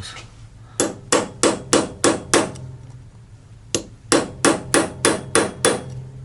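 Hammer blows on metal, two runs of six and then seven strikes at about three a second, un-staking the peened collar of the flange nut on the transfer case output so it can be undone.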